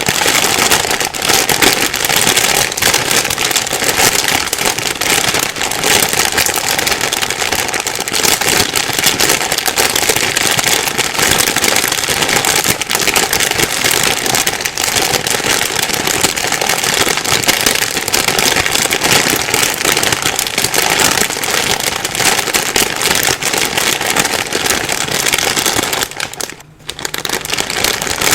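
Plastic bag rustling and crinkling continuously, a dense crackle of many small crackles, with a brief lull about two seconds before the end.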